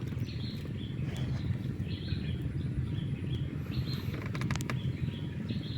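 A small bird chirping: short, high calls repeated about twice a second over a steady low rumble.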